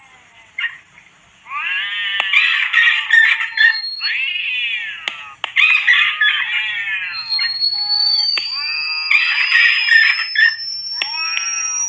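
Repeated high-pitched animal squeals and shrieks from a rodent-repellent sound mix of rat screams and cat cries, coming in bursts after a short quiet start. Over them a thin, high electronic tone rises slowly from about the middle.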